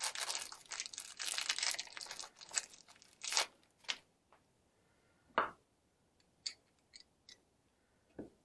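Crinkling and tearing of a small plastic parts bag for about three and a half seconds, then a few scattered light clicks and taps of small parts being handled.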